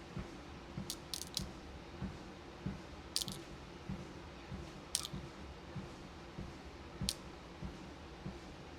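Footsteps thudding steadily on a walking pad treadmill, a little under two steps a second, over its low running hum, with a few sharp clicks of beads and plastic bead containers being handled.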